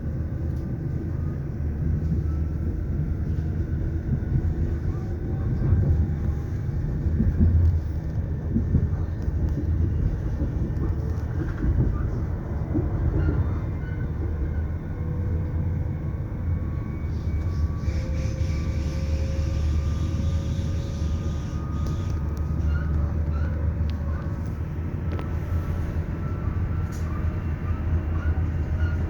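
Train running along the track: a steady low rumble of wheels on rails, with faint whining tones that slowly shift in pitch and a little more hiss in the second half.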